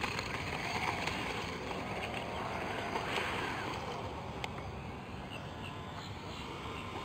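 Steady wind noise on the microphone, with the faint whine of a distant RC airplane's electric motor sliding in pitch.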